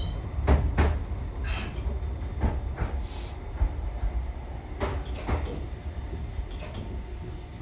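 Electric train running and slowing toward a station, heard from inside the passenger car: a steady low rumble with scattered clacks and knocks from the wheels and car body, and a brief hiss about a second and a half in. The rumble eases off near the end.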